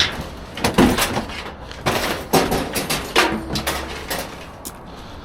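Scrap being shifted and dug through by hand: a series of irregular knocks and clatters, about six in all, fading off in the last second or so.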